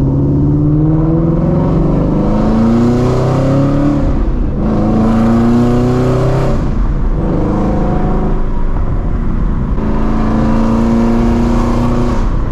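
2016 Shelby GT350's 5.2-litre flat-plane-crank V8, running catless through long-tube headers, at full throttle: the engine note climbs through each gear and drops at several quick upshifts.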